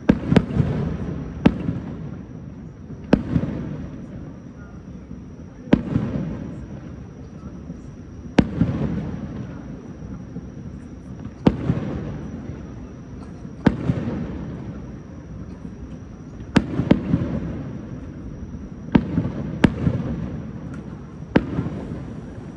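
Aerial firework shells bursting in a display, a sharp bang every two to three seconds, each followed by a long rumbling echo.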